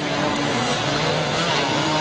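Racing motorcycle engines running at speed, several engine notes at once rising and falling in pitch.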